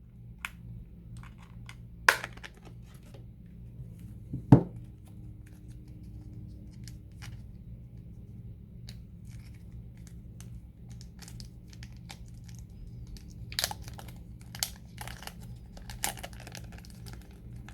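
Hands handling a smartphone's plastic parts and peeling protective plastic film. There are two sharp clicks in the first few seconds, the second the loudest, then scattered small clicks and crinkling that grow busier near the end, over a faint steady low hum.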